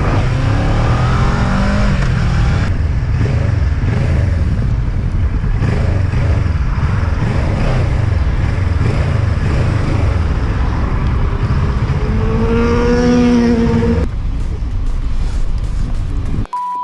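Motorcycle engine running hard with rushing wind noise as the rider gives chase, the engine note rising about three-quarters of the way through. A short steady beep sounds near the end.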